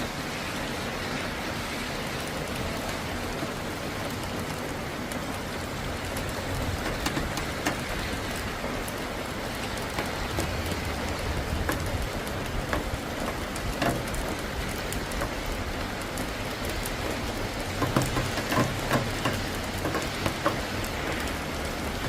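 Steady thunderstorm rain falling, with individual drops ticking sharply on a surface close by, thickest in the last few seconds.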